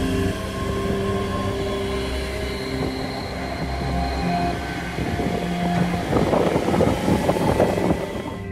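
ScotRail Class 385 electric multiple unit running past the platform with a steady hum of tones. Its wheels rattle louder over the track for a couple of seconds near the end as the rear carriages go by.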